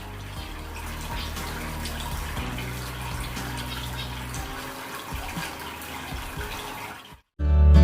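Water splashing and trickling from a small homemade cement waterfall fountain fed by a submersible pump, over faint background music. It cuts off suddenly near the end, and loud guitar music starts.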